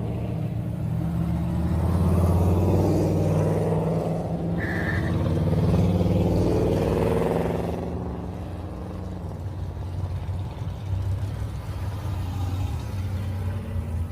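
Car engines pulling away and accelerating, their pitch rising and falling, loudest about 2 seconds in and again around 6 seconds, then settling to a steadier low rumble. A brief high beep sounds about 5 seconds in.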